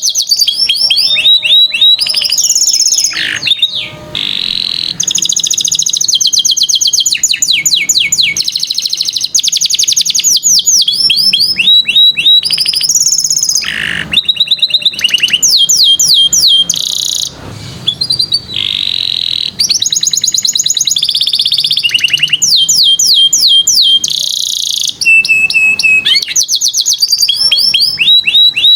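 Domestic canary singing in full song: long runs of fast, high-pitched repeated notes, each run switching to a new trill every second or two with only brief pauses.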